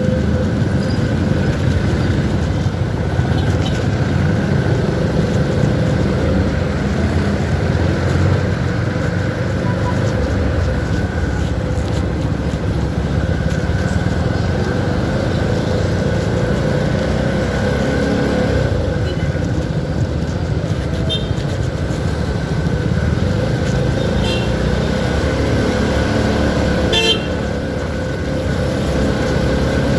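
CFMoto 300SR single-cylinder motorcycle being ridden, its engine running steadily under a loud rumble of wind and road noise. A short horn toot sounds near the end.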